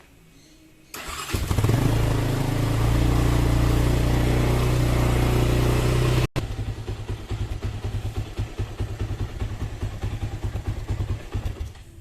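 Honda XLR200 motorcycle's single-cylinder engine starting about a second in and running steadily. After a sudden break at about six seconds it is heard again idling with an even, rapid pulsing beat.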